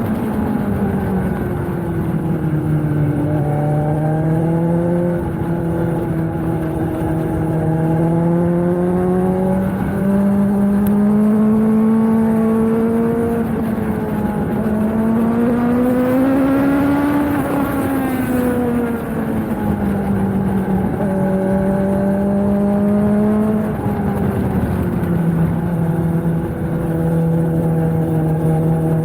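Suzuki GSX-S 750's inline-four engine through a Yoshimura Alpha T slip-on exhaust, heard from the moving bike as its note rises and falls with throttle and gear changes. It climbs to its highest pitch a little past halfway, then falls off as the bike slows, with wind rush underneath.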